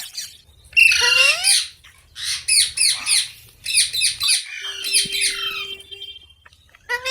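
Parrots squawking: a harsh, rising screech about a second in, then a quick run of repeated shrill calls that fades out around six seconds, and another rising squawk near the end.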